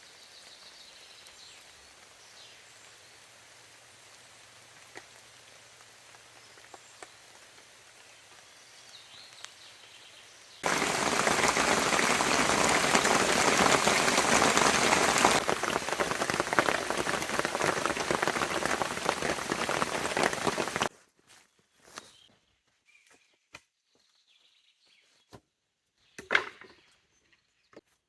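Heavy rain pouring down, loud and steady, cutting in abruptly about a third of the way in and stopping just as abruptly some ten seconds later. Before it only faint rain and a few light ticks; after it, near quiet with a few scattered knocks and clinks.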